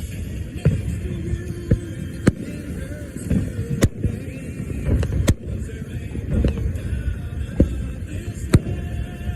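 Fireworks going off: about ten sharp bangs at uneven intervals, over a steady low rumble.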